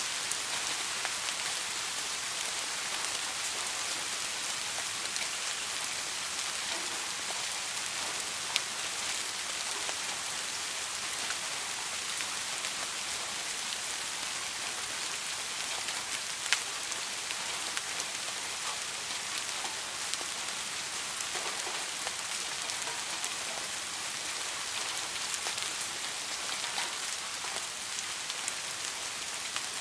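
Soft rain falling steadily, an even hiss with scattered drop ticks and two sharper drop clicks about eight and sixteen seconds in.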